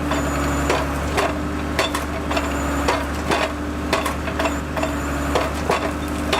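A machine's engine running steadily under a rapid, irregular run of sharp wood cracks and knocks, about two a second.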